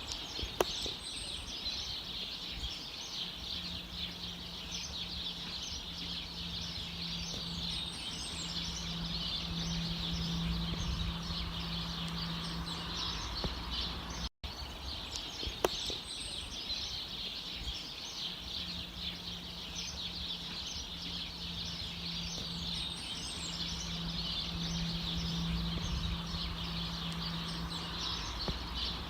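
A dense chorus of many small birds chirping together without pause, over a steady low hum and rumble in the background. The sound cuts out for an instant about halfway through.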